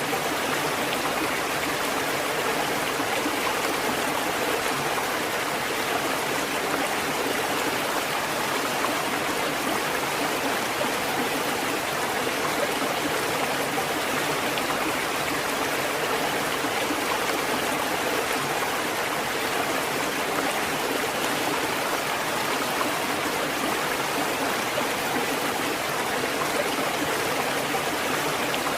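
Water fountain running: a steady, unbroken flow of falling water that does not change over the whole stretch.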